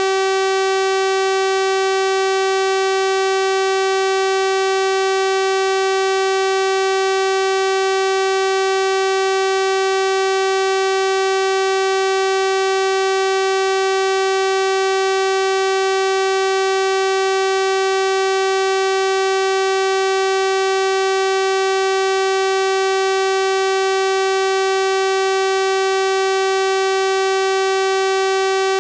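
Synthesized 384 Hz sawtooth-wave tone, held steady and unchanging: a bright, buzzy single pitch rich in overtones.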